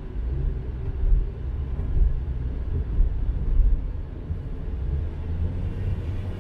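A car driving along a road, with a steady low rumble of engine and tyre noise.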